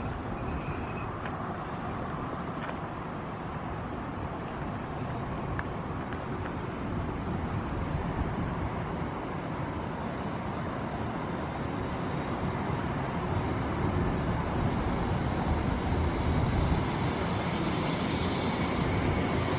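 Rumble of a train running through the station, growing steadily louder toward the end as it draws closer.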